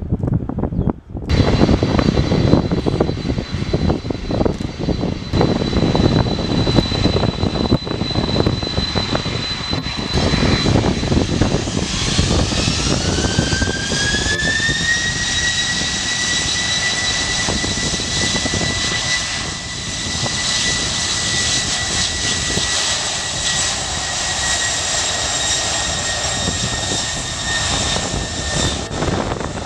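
Jet airliner engines running with a loud rumble and a high whine. About twelve seconds in the whine rises in pitch as the engines spool up, then holds steady at the higher pitch.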